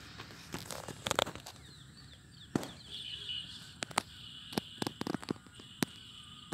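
Scattered sharp clicks and knocks, loudest just after a second in, with a high-pitched bird chirping about three seconds in and again near the end.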